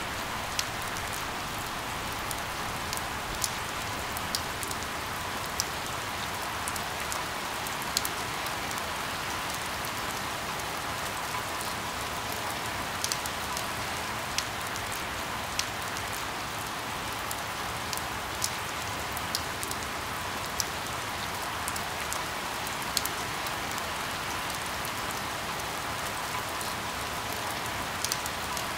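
Steady rain falling, a constant hiss of drops with scattered sharp ticks of single drops landing close by every second or two.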